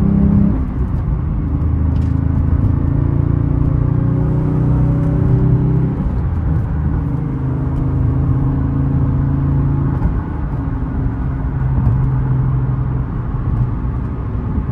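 Porsche 911 Speedster's 4.0-litre naturally aspirated flat-six, heard from inside the cabin while accelerating through the gears of its manual gearbox. The revs climb and fall away with upshifts about half a second in and again at about six seconds, then hold fairly steady while cruising, with another dip near ten seconds.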